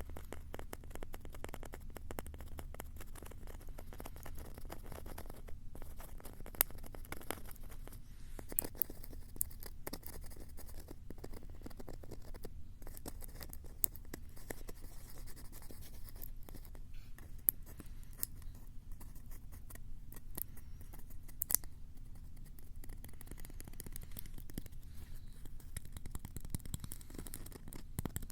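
Close scratching on the microphones of a Tascam handheld recorder, a dense crackle of small scratches and clicks with a few sharper ticks.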